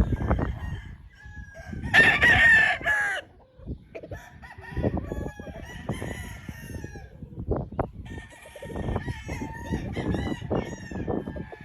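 Gamecock roosters crowing, one loud crow lasting about a second starting about two seconds in, with fainter crows and clucking around it over low rumbling noise.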